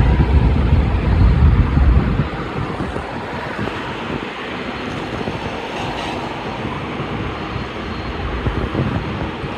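Freight train rolling by with a steady rumbling rail noise. Wind buffets the microphone for the first two seconds or so.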